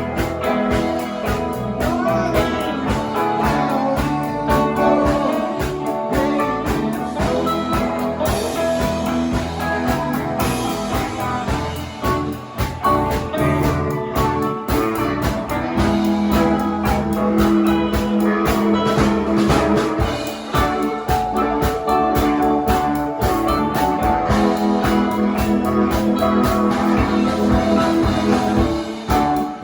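Live band playing an instrumental passage, with guitar to the fore over a steady drum beat.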